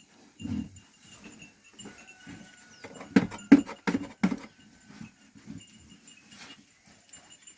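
A flock of sheep arriving at the pen: a faint, repeated tinkle of sheep bells throughout, with a thud about half a second in and a quick run of four short, sharp animal sounds around the middle.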